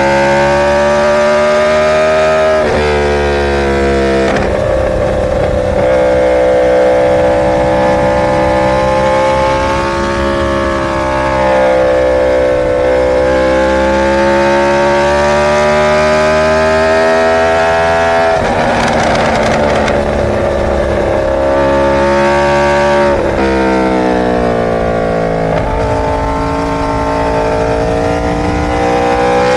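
Inline-four superbike engine running hard under way, its pitch drifting slowly up and down with several sudden drops, about three seconds in, near the middle and again a few seconds later.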